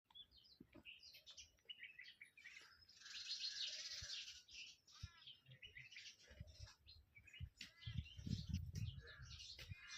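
Many birds chirping and calling over one another in short overlapping trills, thickest about three to four seconds in. A low rumble comes under the calls about eight seconds in.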